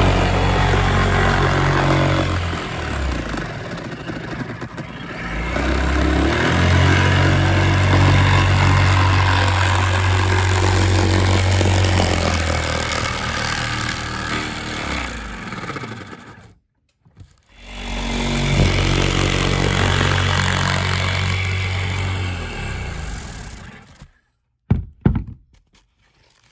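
Power saw cutting sheet metal, running in three long stretches with short pauses, then a couple of knocks near the end.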